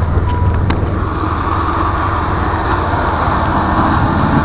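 Snowplow trucks approaching along the road: a steady engine rumble with a rushing noise that slowly grows louder.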